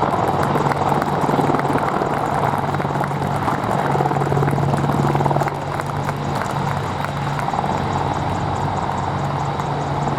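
Military helicopters running steadily, with the rapid chop of the rotor blades over the turbine engines' noise.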